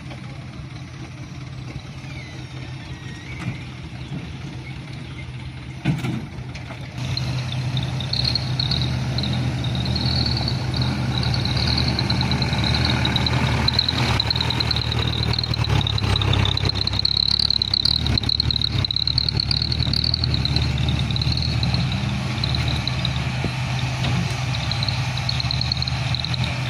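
Mitsubishi Canter dump truck's diesel engine running, quieter at first, with a thump about six seconds in, then louder from about seven seconds. A high wavering whine rides over the engine from about eight seconds on.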